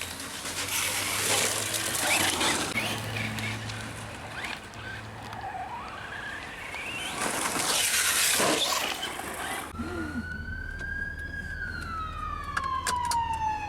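Emergency-vehicle siren wailing, starting about ten seconds in: its pitch climbs, sinks slowly over a few seconds, then starts climbing again. Before it, a loud rushing noise swells twice.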